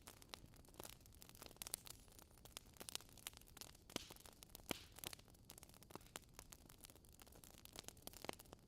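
Wood fire in a fireplace, burning logs crackling: irregular sharp pops and snaps over a soft hiss, with a few louder pops around four seconds in, near five seconds and near the end.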